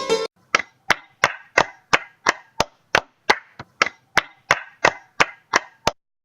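Music cuts off, then a steady series of sharp knocks, about three a second, each with a brief ring, stopping abruptly near the end.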